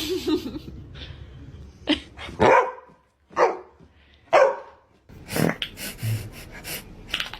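A dog barking: a series of short single barks, each dropping in pitch, with gaps between them.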